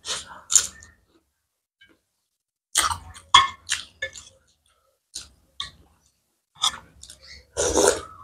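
Close-up eating sounds: a person biting into a fresh red chili pepper, then chewing in short, crisp bursts with silent pauses between them. A longer, louder burst comes near the end.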